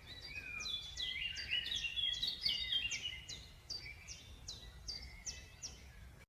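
Birds calling: a rapid run of short, sharp down-slurred notes, about three a second, over other overlapping chirps, against a faint low background hiss.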